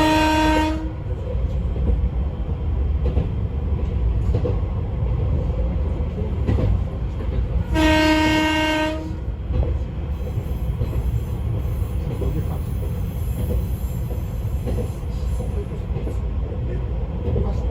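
Izukyu 2100 series electric train running, a steady low rumble of wheels and track heard from inside the car. A single-tone horn sounds twice, a blast of about a second right at the start and another about eight seconds in.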